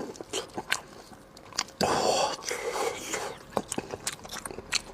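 Close-miked wet chewing and mouth clicks of a person eating braised pork leg, with a louder noisy stretch lasting over a second about two seconds in.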